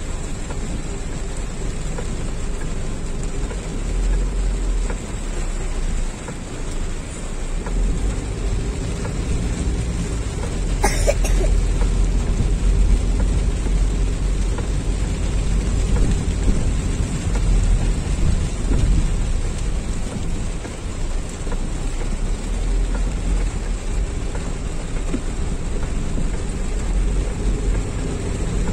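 Heavy rain beating on a moving car's roof and windscreen, over the low rumble of the car and its tyres on a wet road, heard from inside the cabin. A brief sharp click about 11 seconds in.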